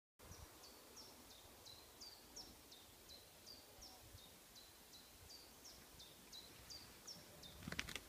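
A small bird repeating a short, high, falling chirp about two to three times a second, faint over outdoor background noise. A brief, louder burst of sound comes near the end.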